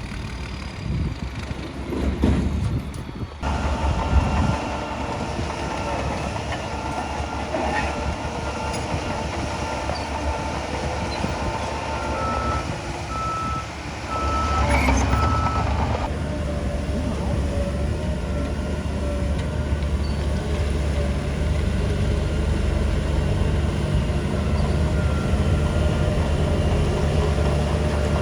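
Diesel engines of heavy earthmoving machinery, a bulldozer and dump trucks, running steadily and growing louder a few seconds in and again about halfway. A reversing alarm beeps in a short even series just before halfway.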